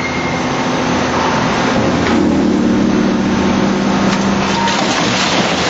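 Raptor tire chipper with hook shear knives shredding heavy truck tires: a loud, continuous grinding noise over a steady machine hum, with a few sharp cracks.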